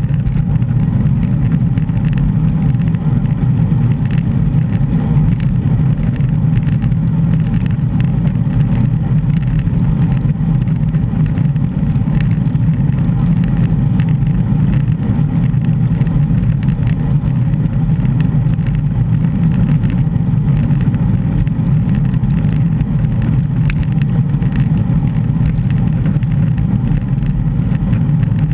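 Steady low rumble of wind buffeting a GoPro's microphone on a moving bicycle.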